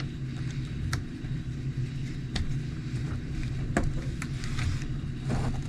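A few light, separate clicks of a small screwdriver backing a motor-mount screw out of an RC truck, over a steady low hum.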